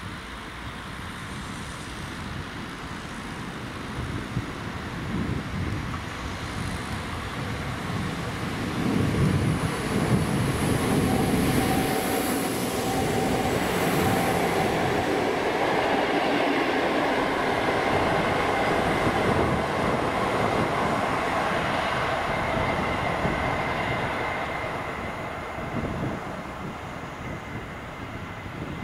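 Locomotive-hauled passenger train passing, its wheels running over the rails. The sound builds as it approaches, stays loud through the middle while the coaches roll by, and fades near the end as the train draws away.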